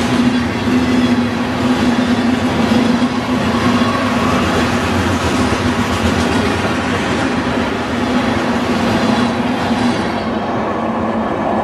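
Freight train of tank cars rolling past at speed: a steady loud rumble of wheels on rail with a steady low hum. The hum drops out about ten seconds in as the last car goes by.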